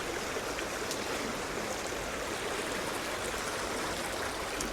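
Steady rush of a small, rocky stream's water running over stones and broken pocket water.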